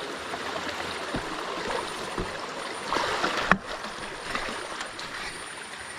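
Stream water running steadily, with a sharp click about three and a half seconds in.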